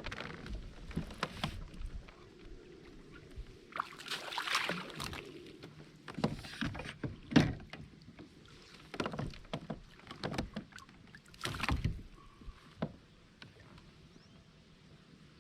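Sounds of a kayak on the water: short splashes and irregular knocks and clatter against the hull. The loudest knock comes about seven seconds in.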